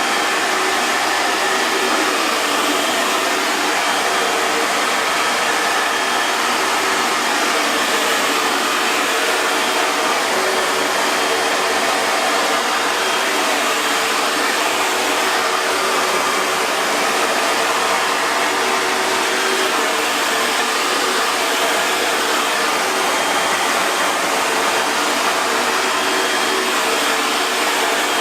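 Hair dryer running steadily: an even rush of blown air with a faint motor hum beneath it.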